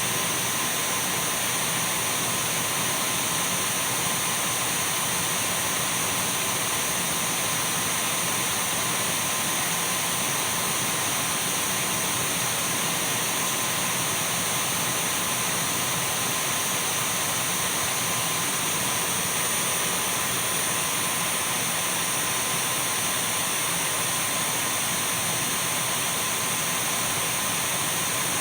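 Dyson V12 cordless stick vacuum running continuously: a steady rushing of air with a thin, high, constant whine from the motor.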